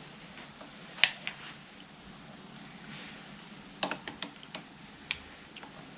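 Irregular sharp clicks and clinks of hand tools working on the motorcycle's mirror mount: a loud click about a second in, a couple more right after, then a quick run of clicks around four seconds and a single one near five.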